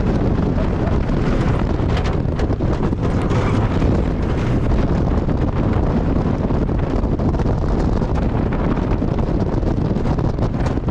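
Heavy wind buffeting the microphone over a steady low rumble from a wooden roller coaster train running along its track, with scattered faint clacks.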